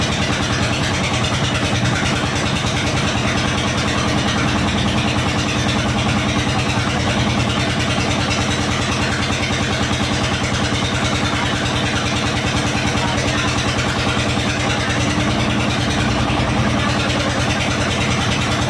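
Small engine of a plastic-drum fishing boat running steadily at a constant, low speed, with a fast, even beat.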